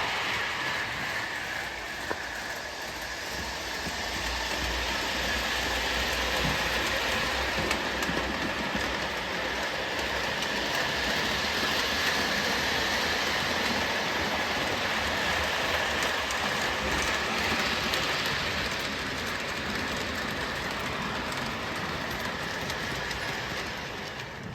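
O gauge model train (a Williams by Bachmann FM Trainmaster diesel pulling box cars) running on the track, with a steady rolling clatter of wheels and motor that dies away near the end.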